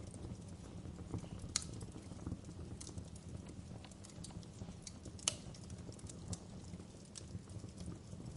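Wood fire burning in a fireplace: a steady low rumble of flames with irregular crackles from the burning logs and two sharper pops, about a second and a half in and about five seconds in.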